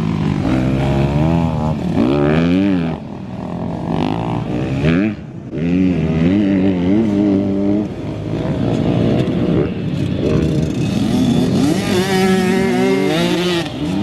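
Small two-stroke mini dirt bike engines revving on a motocross track. The pitch rises and falls over and over as the riders accelerate and shift, with more than one bike heard at once near the end.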